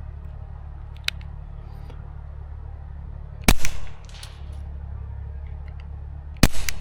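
Two suppressed shots from a Taurus TX22 .22 LR pistol fitted with a Resilient Suppressors Jessie's Girl can, firing subsonic rounds, about three seconds apart: each a sharp crack with a brief tail.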